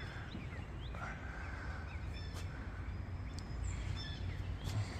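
Outdoor ambience: a steady low rumble with faint, scattered chirps and short whistles of small birds.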